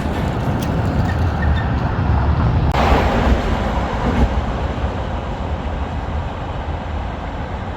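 Low steady rumble of a moving vehicle, with a louder rush of noise swelling suddenly about three seconds in and fading over the next second or two.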